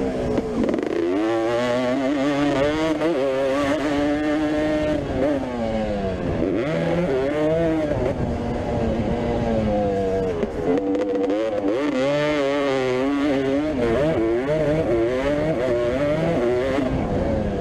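Motocross bike engine revving hard and easing off over and over, its pitch climbing and dropping every second or two as the rider works the throttle and gears around the track.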